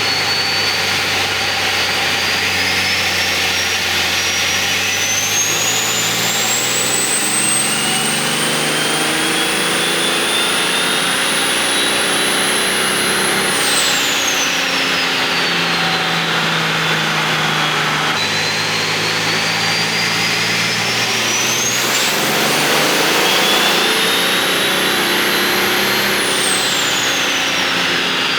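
Turbocharged diesel pickup making a pull on a chassis dyno: the engine and a high turbo whine climb steadily for about thirteen seconds, then fall away sharply, climb again and drop twice more.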